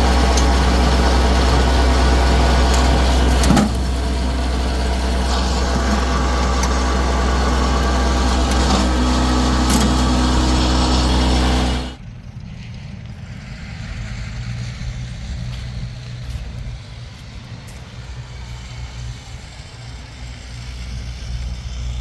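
An engine or motor running steadily with a loud, even hum, cutting off abruptly about halfway through and leaving a quieter low rumble.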